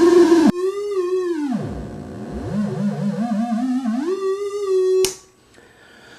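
Hand-built optical theremin noise synth playing a buzzy, warbling tone. The tone swoops down to a very low rumble about two seconds in, climbs back up in wobbling steps, holds, then cuts off with a click about five seconds in.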